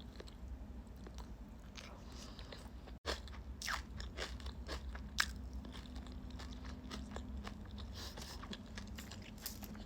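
A person eating close to the microphone: chewing and biting, with frequent sharp clicks from the mouth and food. The sound cuts out for an instant about three seconds in.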